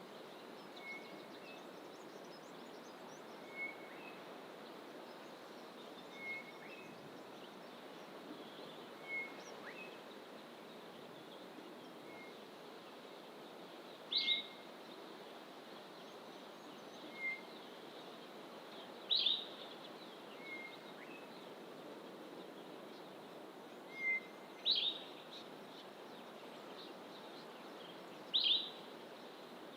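Wild birds calling: a short high note repeated every two to three seconds, with a louder, sharper call that falls in pitch four times in the second half, over a steady low rush of background noise.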